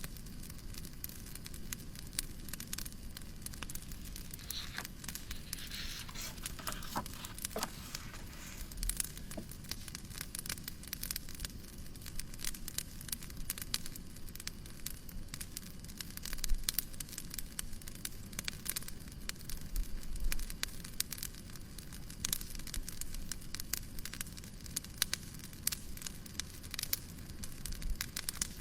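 Crackling fireplace: a steady hiss with frequent sharp pops and snaps of burning wood. About five to eight seconds in, a short softer rustle rises over the crackle.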